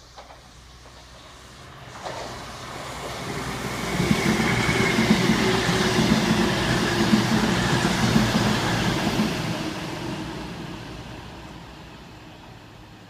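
A CrossCountry Voyager diesel train running through a station without stopping: its engine and wheel noise builds from about two seconds in, is loudest in the middle as the carriages pass, then fades away as it runs off.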